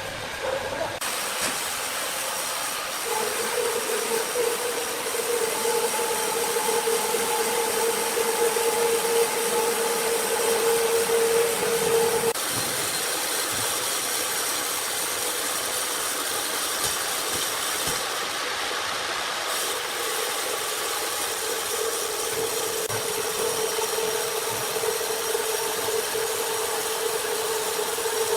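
Sawmill machinery running steadily, with a held whine over the mechanical noise that cuts off about twelve seconds in and comes back about eight seconds later.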